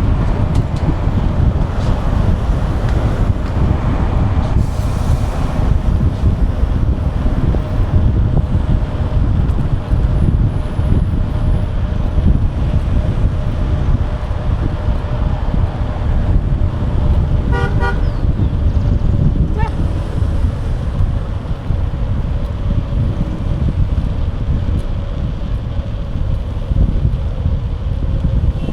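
Wind buffeting the microphone of a bike-mounted camera while riding, over a steady hum that sinks slowly in pitch. About two-thirds of the way in comes a short, rapid run of ringing pulses.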